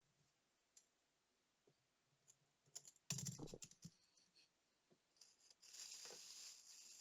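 Faint handling sounds: scattered small clicks and taps, a louder brief rustle about three seconds in, and steadier rustling from about six seconds in.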